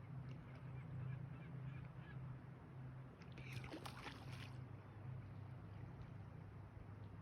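Kayak paddle stroke: a burst of splashing and dripping water about three and a half seconds in, with faint small drips before it, over a steady low background rumble.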